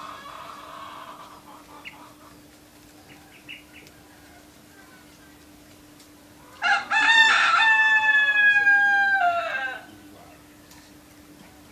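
A rooster crowing once, a single call of about three seconds that drops in pitch at its end. Faint short bird chirps come before it.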